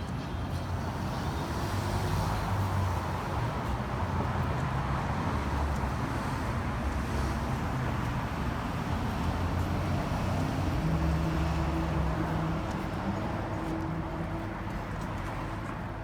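City street traffic: cars passing with a steady rumble of engines and tyres, swelling in the first couple of seconds, with one vehicle's engine hum standing out a little past the middle.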